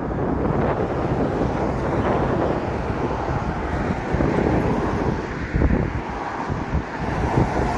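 Wind buffeting the microphone, heard as an uneven, gusty rumble.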